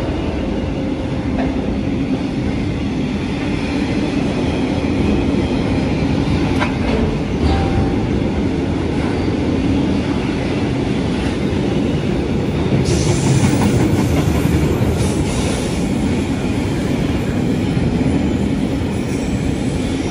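A train running on the rails: a steady, loud rumble with a few faint clicks, turning brighter and hissier about thirteen seconds in.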